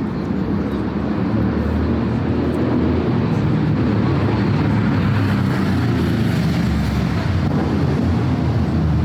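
City street traffic: car engines and tyres on a busy road make a steady low rumble that swells about a second in and then holds.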